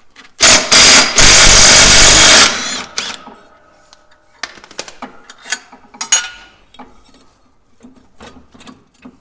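Impact wrench running in two loud bursts for about two seconds, starting about half a second in, loosening the bolt that holds the tractor's electric PTO clutch. Light metallic clicks and knocks follow as the parts are handled.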